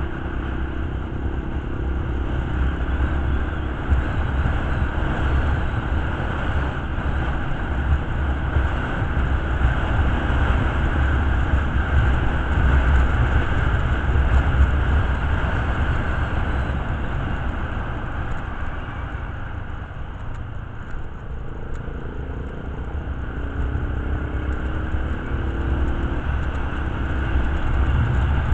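A motorcycle running steadily on the move, under a heavy rumble of wind on the microphone. A faint engine tone rises a few times near the end.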